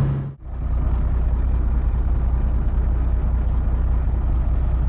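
Semi truck's diesel engine running with a steady low drone. A brief dropout comes just after the start, then the drone carries on unchanged.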